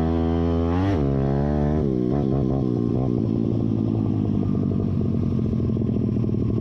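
YCF pit bike's single-cylinder four-stroke engine running under way with its spark arrestor removed. The revs climb, fall sharply about a second in, waver back up, then settle into steady running.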